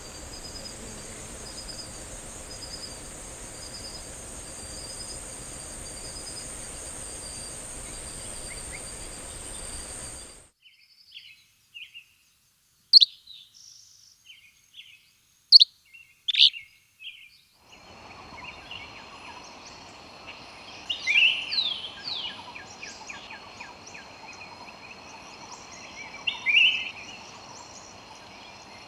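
Rainforest birds and insects. For about ten seconds insects keep up a steady high buzz with a pulsing chirp. The sound then cuts off abruptly, and a few loud, sharp, falling bird calls ring out over near silence. After that, more bird calls over a steady insect background.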